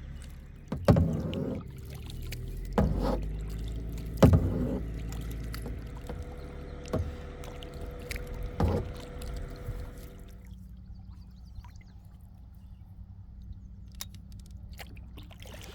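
Kayak paddle strokes dipping into and splashing in calm lake water, about five strokes a second and a half to two seconds apart, over a low steady rumble. The strokes stop about two-thirds of the way in, leaving quieter water sounds.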